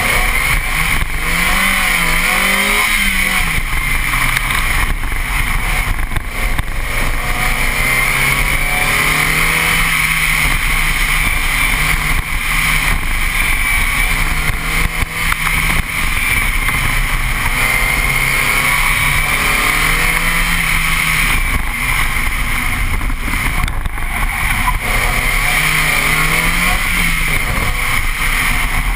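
Mazda Miata's four-cylinder engine repeatedly rising and falling in pitch as the car accelerates and lifts through an autocross course, over a steady hiss of wind and tyre noise.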